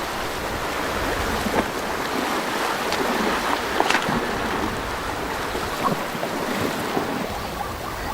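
River water churning and splashing as a herd of zebras and wildebeest wades across, a steady wash with a few sharper splashes.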